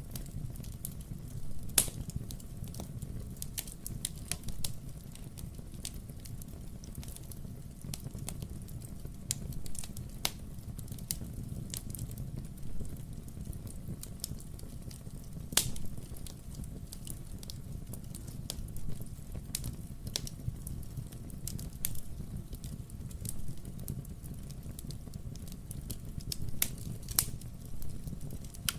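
Wood-burning fireplace crackling steadily over a low rumble of flame, with irregular sharp pops from the burning logs; a few louder pops stand out, about two, ten and fifteen seconds in and again near the end.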